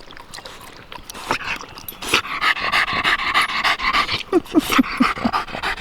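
Dog panting hard and fast, winded and overheated after a long run through thick brush on a hot day. The panting grows louder about two seconds in.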